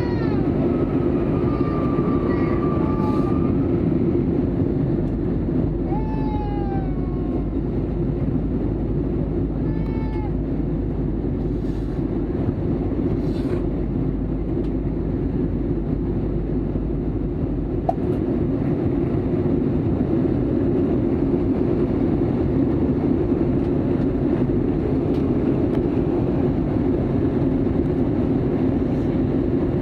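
Steady drone of an Airbus A320 airliner cabin: engine and airflow noise. Over it, in the first dozen seconds, a small child gives several short, high whining cries, some falling in pitch.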